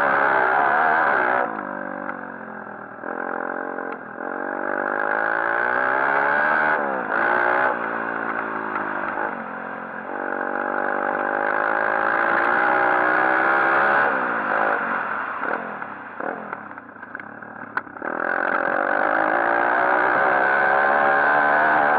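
140cc pit bike's single-cylinder four-stroke engine, revved hard and eased off in turn, its pitch climbing and falling several times as the throttle is worked. It drops quieter for a couple of seconds near the end, then pulls hard again.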